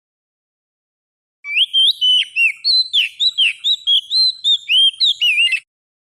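Oriental magpie-robin (kacer) song used as a lure call: one phrase of about four seconds of quick, varied whistled notes sliding up and down, starting about a second and a half in and cutting off suddenly.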